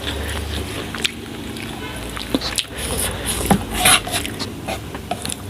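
Eating noodles with chopsticks: chewing and slurping, with scattered sharp clicks.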